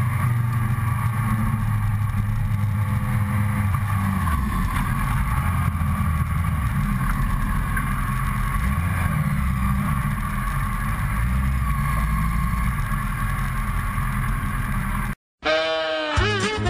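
Suzuki GSX-R inline-four engine running at low revs, its pitch shifting up and down with the throttle. About fifteen seconds in the sound cuts out abruptly and music begins.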